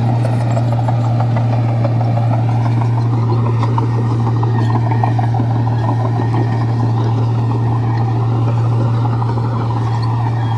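Komatsu bulldozer's diesel engine running steadily with a constant low drone, a dense rattle of clanking and clicks over it.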